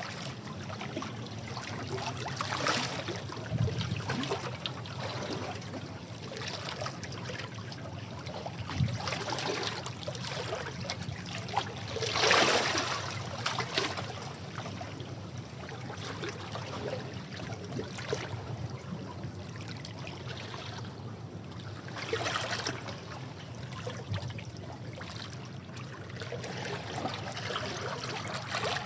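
Sea waves washing and breaking on rocks: a continuous rush of water with irregular louder surges, the strongest about twelve seconds in.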